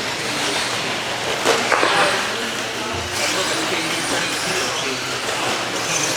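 Radio-controlled stadium trucks racing around the track: a steady hiss of motors and tyres, with a few sharp knocks about one and a half to two seconds in, over background voices.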